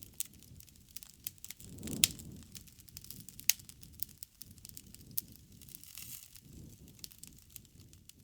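Wood campfire burning, with many sharp crackles and pops over a low soft rumble of flames; a loud pop about two seconds in and another near the middle.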